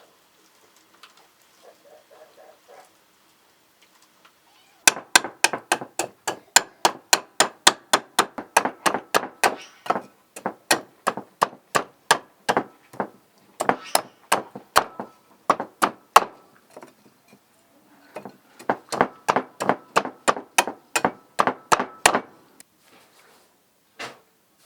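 Knife chopping rapidly on a cutting board, about four strokes a second, in several runs with short pauses between them.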